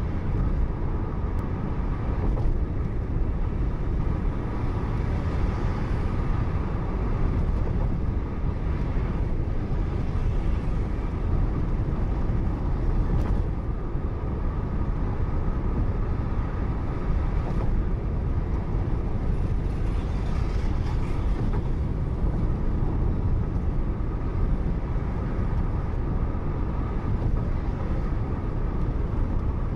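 Steady road and engine noise of a moving car heard from inside the cabin, with faint ticks now and then.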